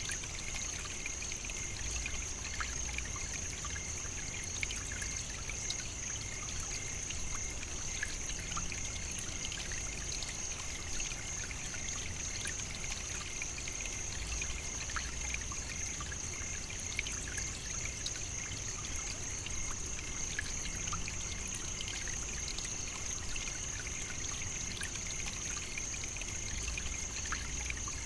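African savannah nature ambience: a steady, even, high-pitched drone that does not change, with faint scattered ticks.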